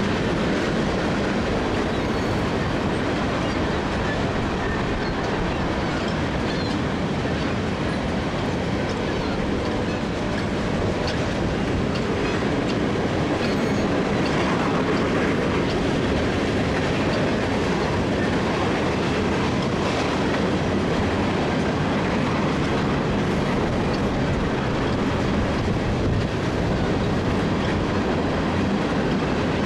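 Freight cars of a CSX mixed freight train rolling steadily past: a continuous noise of steel wheels on rail, with scattered light clicks of wheels over the rail.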